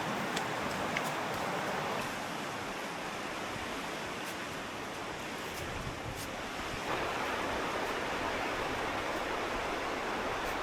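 Steady rushing of a river or stream, an even noise whose level shifts suddenly about two seconds in and again near seven seconds.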